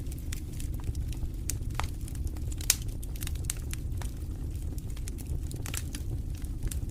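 Fire burning in a fireplace: a steady low rush of flames with frequent sharp crackles and pops, one louder pop a little under three seconds in.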